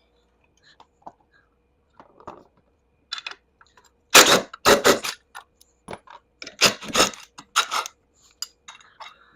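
Hand tools and steel bolts clinking and clanking on a golf cart's metal canopy frame as it is unbolted: a few light clicks at first, then a run of sharp metallic clanks about four to eight seconds in.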